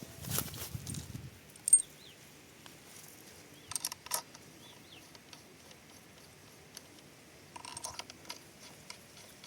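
Scattered metallic clicks and clinks of hand tools and brake parts while a motorcycle's front brake pads and caliper are being refitted, loudest in short flurries near the start, about four seconds in and near the end.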